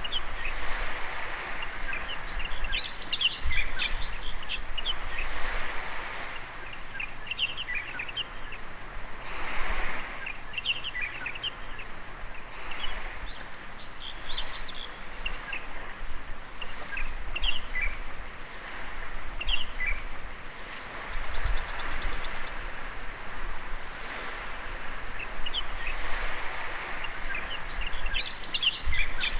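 Small waves washing in and out on a beach, the wash swelling and fading every several seconds, with birds chirping and calling throughout; a quick high trill about two-thirds of the way through.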